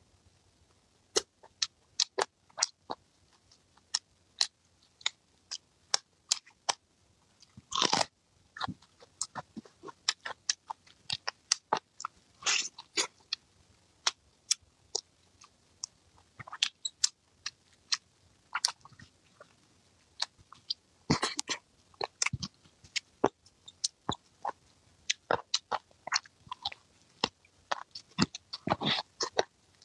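Close-miked chewing and biting of braised meat on the bone: an irregular run of short, sharp mouth clicks, with a few louder clusters.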